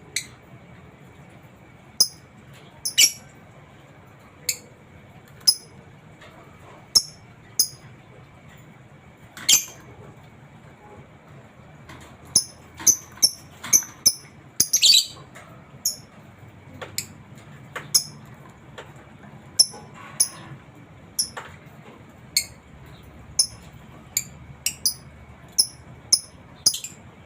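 Lovebird giving short, sharp, high-pitched chirps, one every second or so, with a quick run of them about halfway through.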